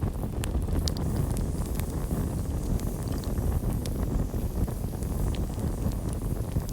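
Campfire burning: a steady low rumble of flames with scattered sharp crackles and pops throughout.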